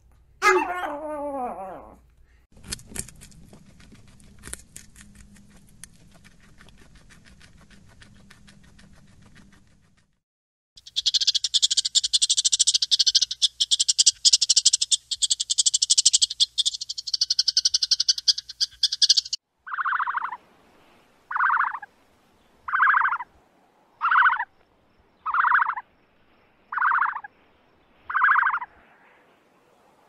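A run of animal calls in succession: a small dog's brief calls at the start, then quick faint clicks, then a palm squirrel's loud, high-pitched, rapid chattering for about eight seconds. After that come short calls repeating about every second and a half.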